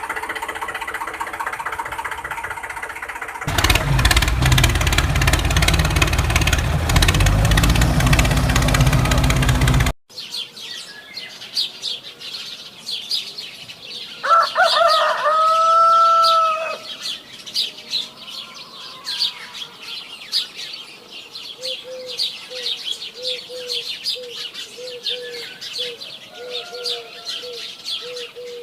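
A small motor running, much louder and heavier from about three seconds in, then stopping abruptly. After it, many small birds are chirping, with one loud drawn-out call a few seconds later and a low call repeated about twice a second near the end.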